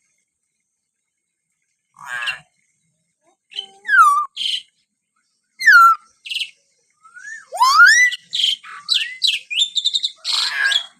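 Hill myna calling. Quiet at first, then loud separate whistles with falling and rising pitch glides mixed with harsh notes, turning into a fast run of whistles, sweeps and chatter from about seven seconds in.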